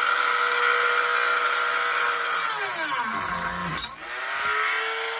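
Dremel rotary tool whining steadily as it cuts into a pinewood block, then bogging down hard about two and a half seconds in and nearly stalling as it binds in the wood, before spinning back up to full speed.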